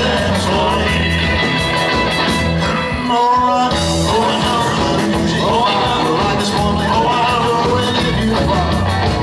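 Live rock and roll band playing: electric guitar over a steady bass and drum beat, with the low end dropping out briefly about three seconds in.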